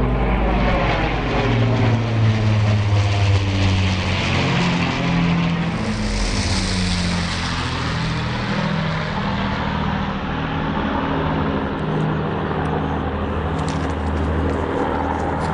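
Avro Lancaster bomber's four Rolls-Royce Merlin piston engines droning as it passes overhead, loudest about six to seven seconds in and then dropping in pitch as it moves away.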